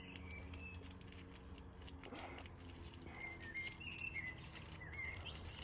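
Faint short bird chirps, a few scattered calls, over a low steady hum.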